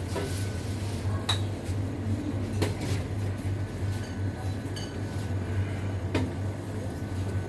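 Crockery and cutlery clinking now and then, a few sharp clinks over a steady low hum.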